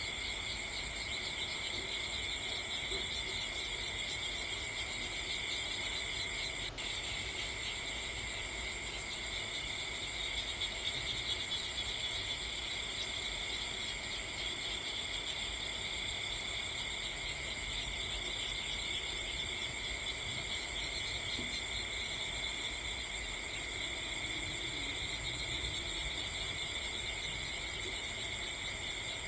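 A steady, continuous chorus of crickets chirring in several high bands, with one sharp click about seven seconds in.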